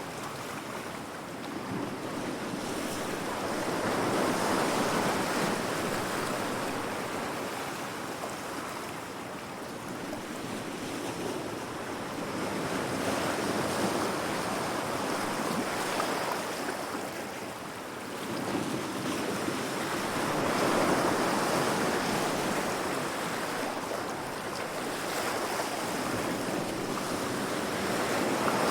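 Heavy ocean waves crashing against rocks, a continuous wash of surf that swells and ebbs about every seven or eight seconds.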